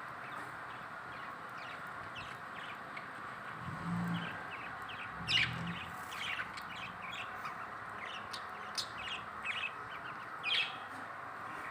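Pet budgerigars and cockatiels chirping and chattering in short, scattered calls over a steady background of flock twitter, with the sharpest calls about five seconds in and again near the end.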